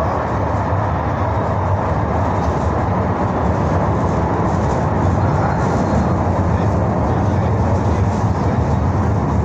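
Underground metro train running: a loud, steady rumble.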